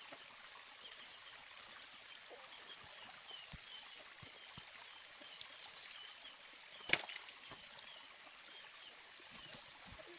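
Faint trickling water with a thin steady high tone and soft repeated chirps. One sharp click about seven seconds in.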